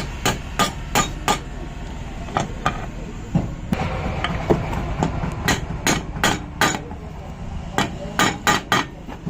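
Hammer blows driving a new bearing into a motorcycle engine, in quick runs of several strikes with short pauses between.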